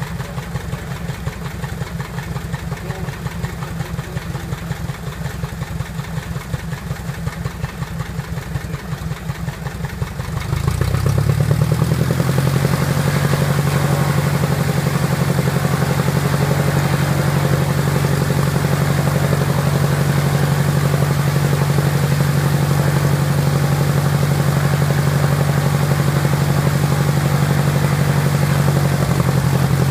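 Piper Apache's piston aircraft engine idling with an even beat, then throttled up about ten seconds in to a steady, louder, higher-speed run: an engine run-up after a rebuild.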